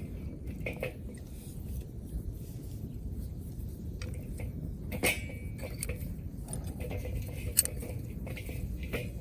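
Metal cookware clinking a few times, with one sharper ringing clink about five seconds in, over a steady low rumble.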